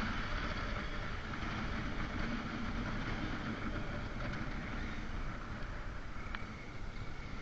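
Motorcycle riding along, its engine running under a steady rush of wind noise on the microphone, a little louder at the start; a single brief click about six and a half seconds in.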